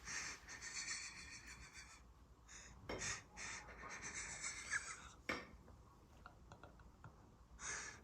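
Faint hissing breaths and soft rubbing sounds from a person, with two sharper short bursts about three and five seconds in.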